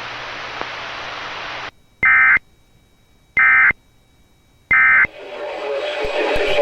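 Three short, identical bursts of NOAA Weather Radio SAME end-of-message data tones, about a second and a half apart, closing the weekly test broadcast. They are preceded by a moment of steady radio hiss, and the hiss comes back near the end.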